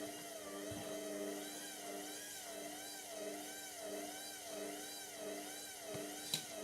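Indesit MTWC71252WUK washing machine's drum motor turning the drum as it tries to balance a lone bath mat before the spin. Its whine wavers up and down evenly, about one and a half times a second, as the lopsided load goes round, and there is a single sharp click near the end.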